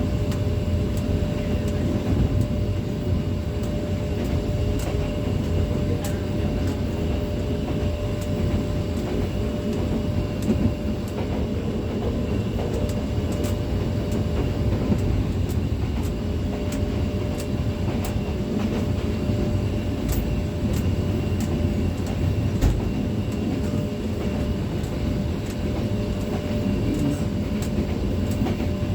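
Steady low rumble of a moving vehicle, with scattered sharp clicks and a faint steady hum.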